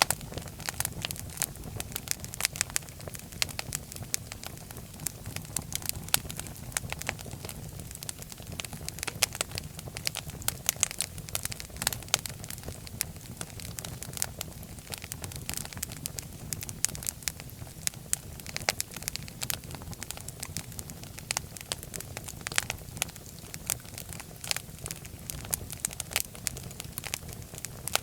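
Wood fire burning in a fireplace, with steady irregular crackling and popping over a low rumble of the flames.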